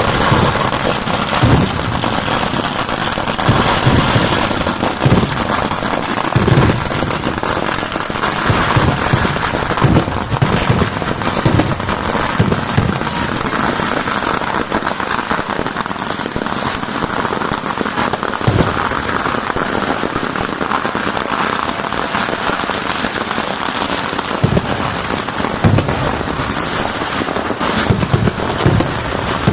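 Kerala temple fireworks (vedikkettu) going off without a break: a dense, rapid crackle of firecrackers with many deep booms mixed in.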